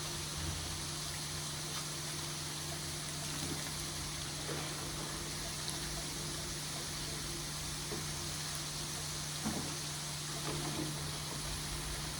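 Food deep-frying in hot oil: a steady sizzle with a low hum underneath and a few faint ticks.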